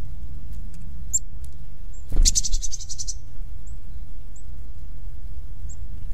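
Wild birds calling: a loud, rapid chattering trill about two seconds in, lasting about a second, with scattered single high chips before and after it. A steady low rumble runs underneath.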